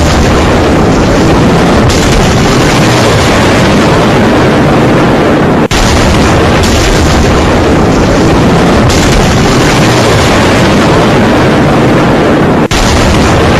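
Severe thunderstorm: a loud, unbroken rush of gale-force wind and driving precipitation, overloading the microphone. It breaks off sharply twice, about six and about thirteen seconds in.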